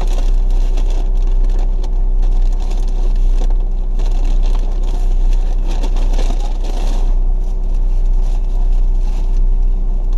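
Car running, heard from inside the cabin: a steady low rumble with a constant hum, and irregular rustling over it.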